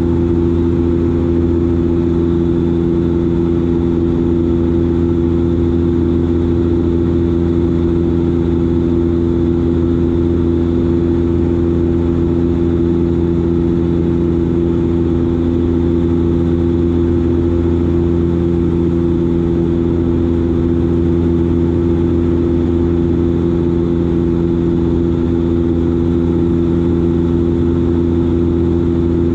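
Dash 8 Q400's Pratt & Whitney PW150A turboprops and six-bladed propellers running steadily in flight: a constant loud drone with several steady humming tones.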